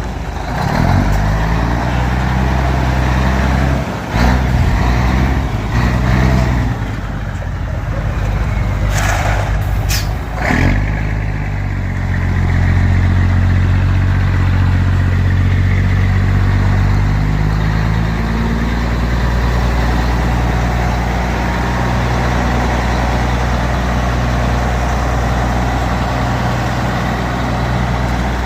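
Truck engine running, its pitch shifting unevenly for the first several seconds. Two short hisses come about nine and ten seconds in, then the engine runs steadily.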